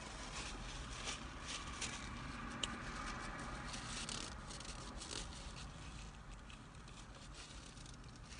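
Someone chewing fried chicken: irregular soft crackles and wet mouth sounds that thin out after about five seconds.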